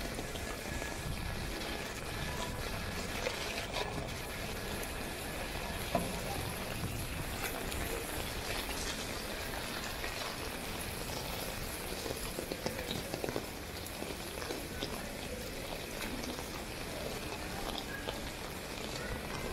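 Steady rain falling on a city street: an even hiss with scattered drips and small taps. Faint voices can be heard at times.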